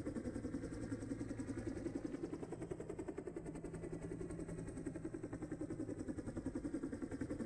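Rally car engine running steadily, with a regular pulsing of about seven beats a second and no change in revs.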